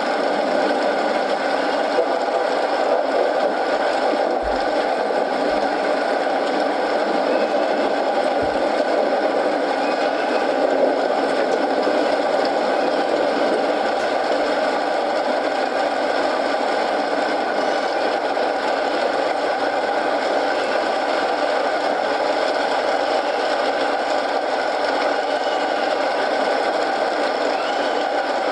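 Steady rain with a crackling wood fire, an even hiss broken by small pops. A few soft low thuds come in the first ten seconds.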